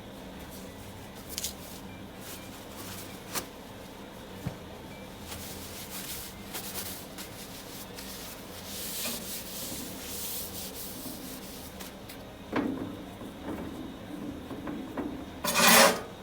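Intermittent rubbing and wiping by hand, with a few light clicks and a louder rustling scrape near the end.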